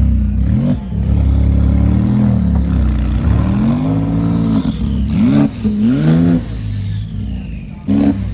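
Car engine revved hard about six times over a loud, steady low exhaust rumble, each rev rising and falling in pitch.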